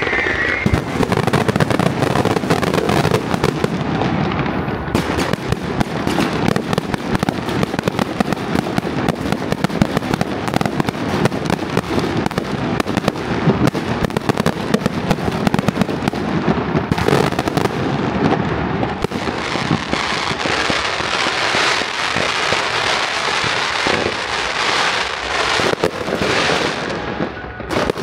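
Firecrackers and fireworks going off in a dense, unbroken crackle of rapid pops, easing slightly near the end.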